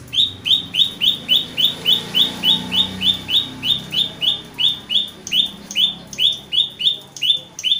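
A bird calling a long, even series of identical short high notes, about three a second.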